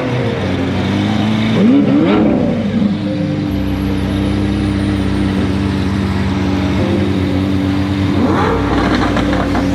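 Lamborghini Aventador's V12 revving as the car pulls away. A few quick rising revs come about two seconds in, then a steady engine note holds for several seconds, and the revs rise again near the end.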